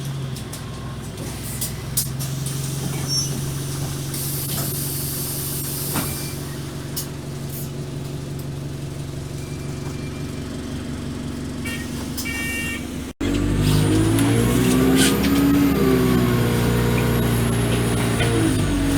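Alexander Dennis Enviro200 bus engine running steadily at idle, with a short hiss of air about five seconds in. After an abrupt break about 13 seconds in, the engine runs louder, its pitch stepping up and down under load, with a thin high whine above it.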